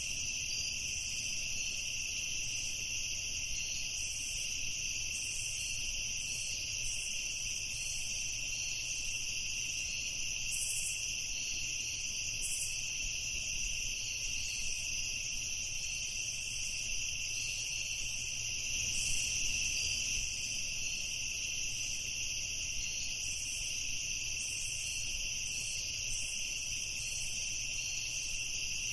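Night insect chorus of crickets: a steady, unbroken high-pitched chirring, with short higher chirps scattered over it.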